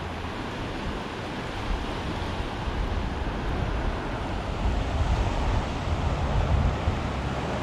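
Surf washing onto the beach, swelling louder about halfway through, with wind buffeting the microphone as a low rumble.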